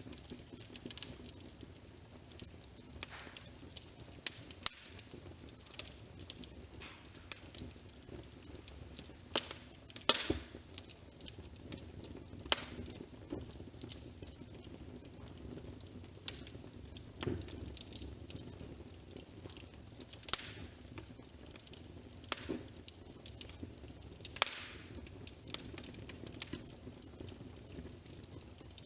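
Wood fire crackling, with irregular sharp pops, a few of them much louder, over a faint steady background.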